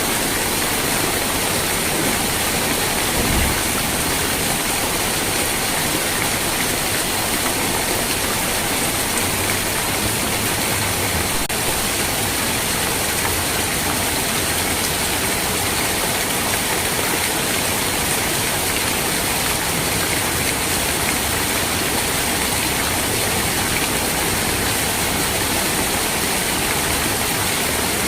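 Steady, even hiss of heavy rain, with a brief low thump about three seconds in.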